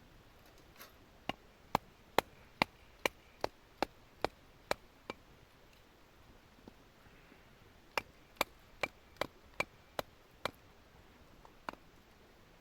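Batoning firewood: a wooden baton knocking on a blade driven into a split of wood, sharp knocks with a slight ring at about two a second. There are two runs, about ten strikes then seven, and one last knock near the end.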